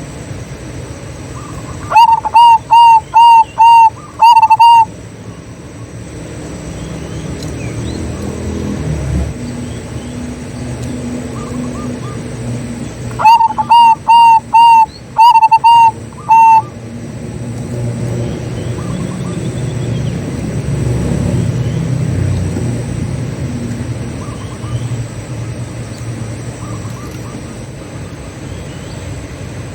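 Zebra dove (perkutut) singing: two bursts of its staccato song, each a quick run of short, clipped cooing notes, about two seconds in and again about thirteen seconds in. A low steady rumble sits underneath.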